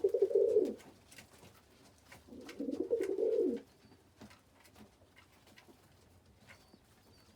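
Domestic pigeons cooing twice, a low burst at the start and another about two and a half seconds in, with faint scattered clicks in between.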